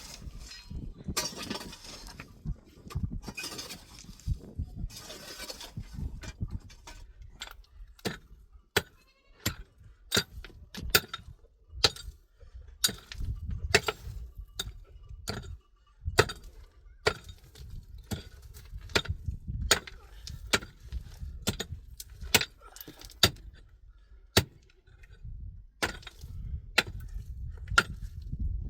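Irregular sharp clicks and knocks, several a second at times, over a low rumble, with a rustling hiss in the first few seconds.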